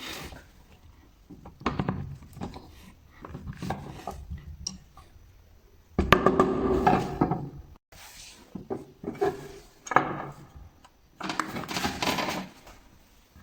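Metal tools and small metal parts clinking, clattering and scraping in irregular bursts during hand work on a starter motor, with a louder, longer stretch of clatter a little past the middle.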